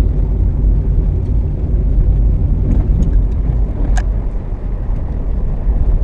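Steady low rumble of a car driving along the road, with a faint click about four seconds in.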